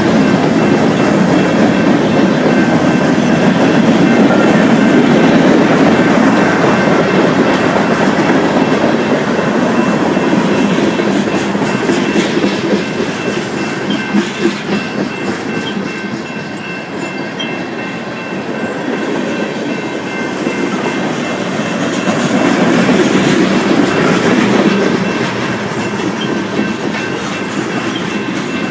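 Train cars rolling past close by: a steady rumble with the clickety-clack of wheels over rail joints and a faint steady high ring. It eases off somewhat past the middle, then swells again.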